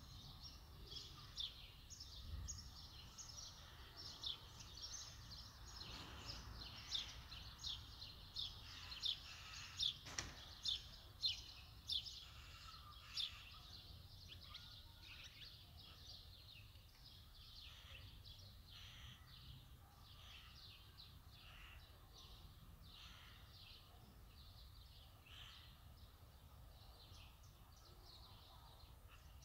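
A bird chirping over and over, short high chirps coming about twice a second. They are loudest in the first half and then carry on more faintly, over a faint low background rumble.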